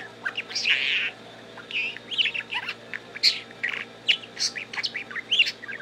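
Budgie chattering: a quick, irregular run of short high chirps and warbled notes with rapid pitch sweeps.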